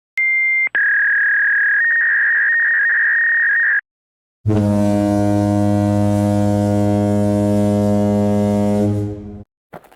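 Electronic sound effects played in turn: a brief high beep, then a steady high tone lasting about three seconds that steps up slightly in pitch, then after a short silence a low buzzer-like tone for about five seconds that cuts off.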